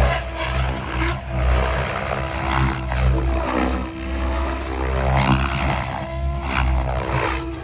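Tron 7.0 Advance electric RC helicopter in flight: a steady hum from its electric motor and rotor head under rotor-blade noise that swells and fades every second or two as it manoeuvres.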